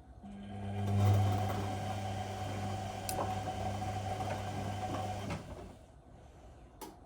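Whirlpool Indiana 1400 washing machine's motor turning the drum during the wash: a steady hum with a clear tone, which swells at the start, runs for about five seconds and stops. A short click near the end.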